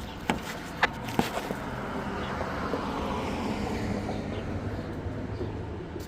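A vehicle passing by, its noise swelling and then fading over a few seconds, over a steady low hum, with a few sharp clicks in the first second or so.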